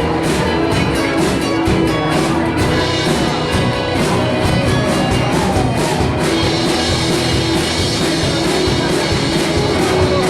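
Live rock band playing a song, unmixed: drum kit with steady cymbal hits over guitars, bass and keyboard.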